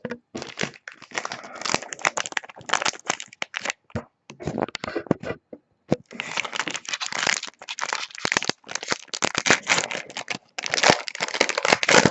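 Trading card pack wrappers crinkling and tearing as fat packs are pulled from a hobby box and opened, an irregular crackling with a short lull a little before halfway.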